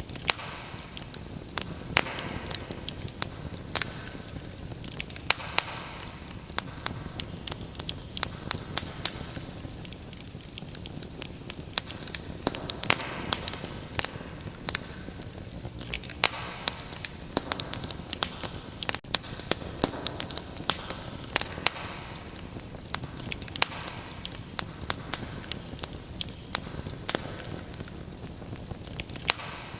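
Wood fire in a fireplace crackling steadily, with frequent sharp, irregular pops and snaps over a soft hiss.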